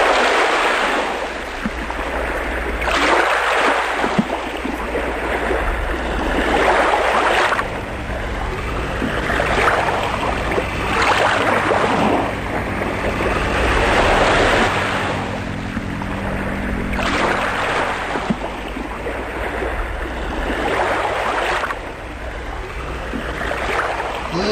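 Ocean waves washing and surging, a swell rising and falling every two to three seconds over a steady low rumble.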